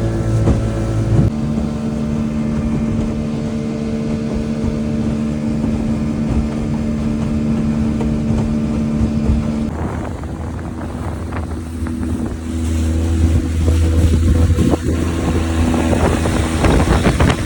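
A 70-year-old boat motor running under way, its note changing about a second in and again around ten seconds in, with wind on the microphone.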